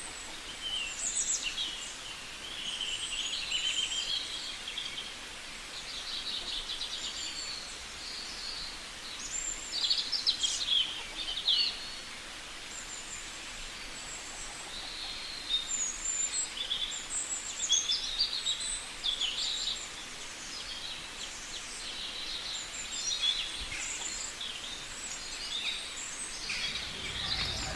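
Indian green parrots calling: many short, shrill chirps and squawks in scattered clusters over a steady background hiss.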